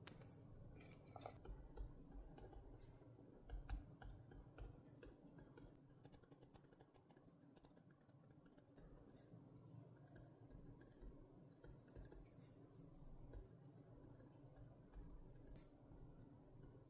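Faint, scattered small clicks, taps and scratches of paper and stationery being handled on a desk while decorating a journal, a little louder about three and a half seconds in.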